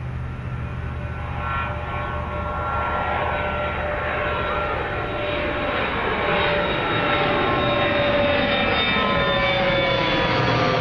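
Jet airliner passing low overhead, its engine noise growing steadily louder, with whining tones that slowly fall in pitch in the second half.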